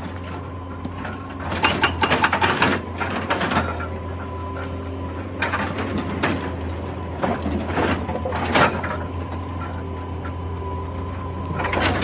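Excavator engine running steadily with a low hum, under irregular clusters of clanking and clattering as the machine works rock.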